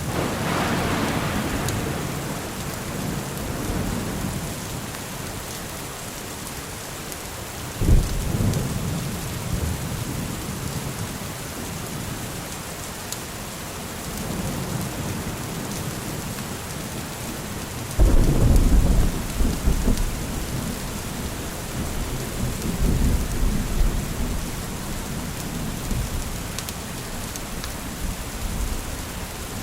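Steady rain with thunder. A rumble fades over the first few seconds, a sudden clap comes about eight seconds in, and a louder sudden crack about eighteen seconds in rolls on for several seconds.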